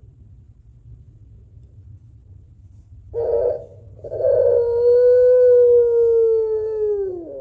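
White puter pelung, the Barbary dove kept in Indonesia for its long call, giving its two-note long coo. A short note comes about three seconds in, then a long held coo of over three seconds that sinks in pitch as it dies away. This is the call used to challenge rivals.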